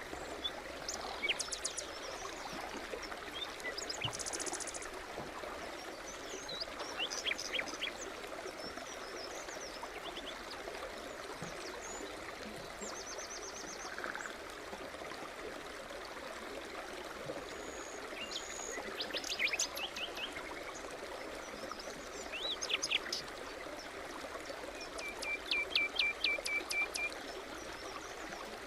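A brook babbling steadily, with songbirds chirping and trilling over it. There are several short bursts of song, and a fast run of repeated notes near the end.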